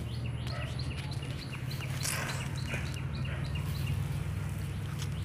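A bird chirping in quick repeated short high notes, about three a second, over a steady low rumble.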